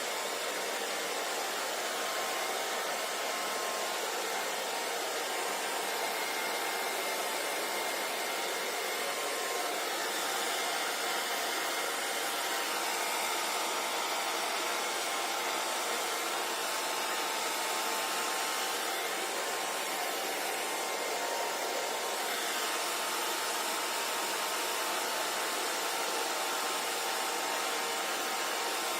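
Handheld hair dryer running steadily: an even rush of blown air with a faint motor whine, unchanging throughout.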